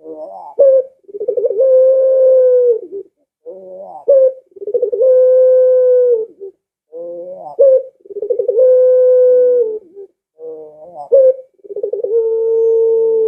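Barbary dove (burung puter, pelung type) cooing loudly over and over: each call opens with a short stuttering rise and runs into a long, steady held coo, four calls about every three and a half seconds.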